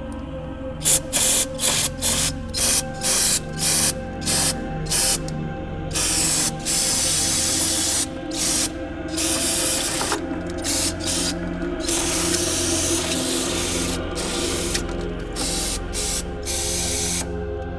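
Aerosol brake cleaner spraying, first in short bursts about two a second, then in longer blasts of a second or two with brief pauses, over background music.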